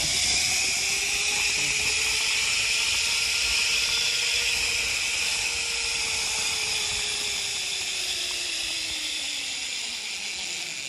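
Zipline trolley running along the steel cable: a steady high whir with a whining tone that rises over the first few seconds and sinks lower toward the end, the whole sound fading near the end.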